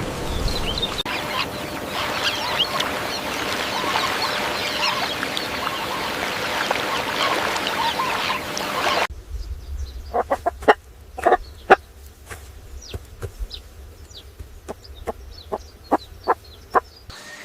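Chickens calling: many short overlapping calls from a flock at first, then, after an abrupt cut about halfway through, separate short sharp clucks about once or twice a second.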